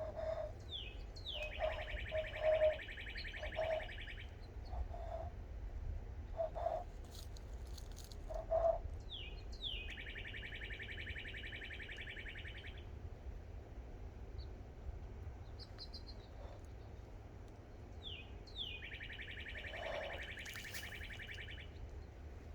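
A songbird singing the same phrase three times, about nine seconds apart: two short down-slurred notes followed by a long, even, buzzy trill lasting about three seconds.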